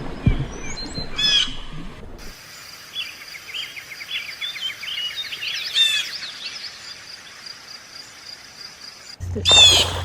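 Birds calling: a series of short high chirps, with three louder descending calls, the last and loudest near the end. A low steady hum comes in about nine seconds in.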